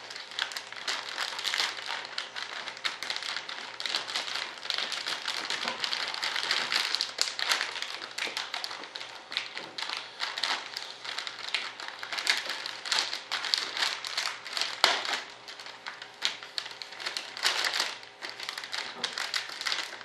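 Plastic vacuum-bagging film crinkling and crackling as it is handled around fibreglass lay-up parts, with irregular taps, while it is being readied to pull vacuum.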